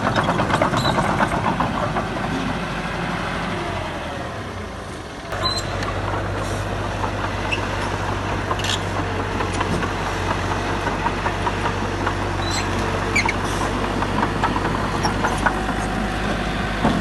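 Heavy diesel earthmoving machinery running. The sound eases off briefly, changes abruptly about five seconds in, then settles into a steady low engine drone with a few scattered clicks.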